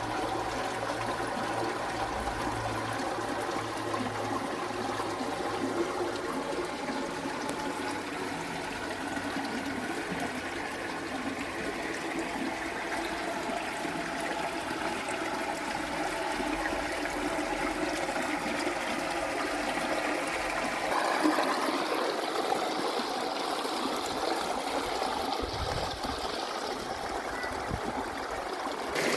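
Steady running water, a continuous trickling flow that shifts slightly in character about two-thirds of the way through.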